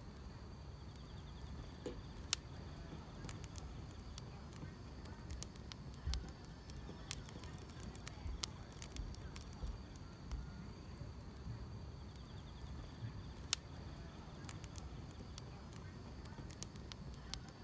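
Wood fire crackling: irregular small snaps and pops over a low rumble, with two louder pops, one about two seconds in and one near the end. Faint steady chirring of grass insects sits under it.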